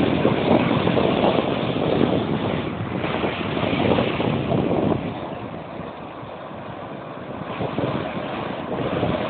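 Rumbling noise of wind on the microphone together with surf at the shoreline, surging and easing, louder for the first half and quieter after about five seconds.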